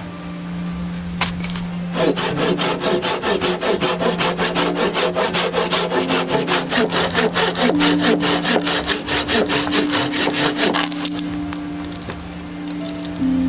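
Hand saw cutting through wood in fast, even back-and-forth strokes that start about two seconds in and stop a couple of seconds before the end.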